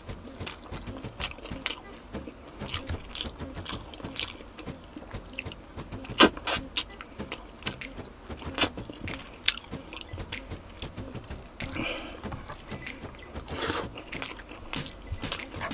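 Close-miked chewing of roast chicken: wet, irregular mouth clicks and lip smacks, with two louder sharp clicks around the middle.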